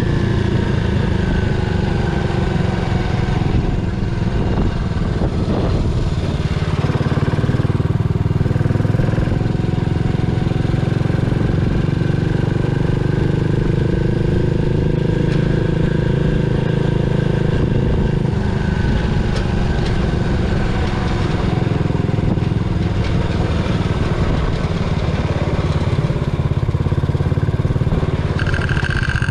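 Yamaha SR400's single-cylinder engine running on the move, its pitch rising and falling as the speed changes.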